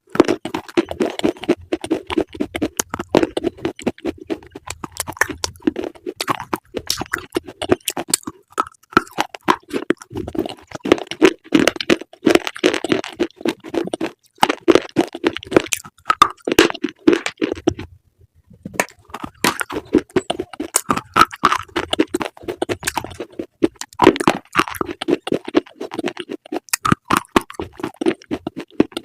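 Close-miked crunchy chewing: a dense run of crisp crunches and crackles, with a brief pause about two-thirds of the way through.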